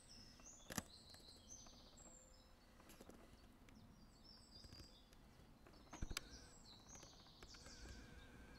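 Faint songbirds singing in quick runs of high repeated notes, with two sharp clicks, one about a second in and one about six seconds in.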